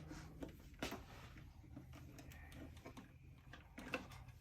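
Faint clicks and taps of plastic parts being handled and fitted together over a low steady hum, with a couple of sharper clicks, one about a second in and one near the end.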